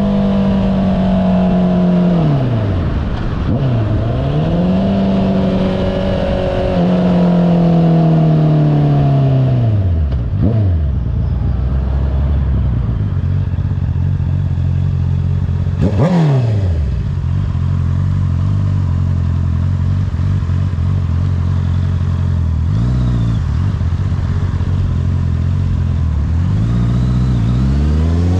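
Honda CBR650R inline-four with an Akrapovic exhaust, heard from the rider's seat. Its pitch drops and rises as the rider slows and gets back on the throttle, then it settles into a long low steady idle. About halfway through there is a quick throttle blip, and near the end the revs climb as it pulls away.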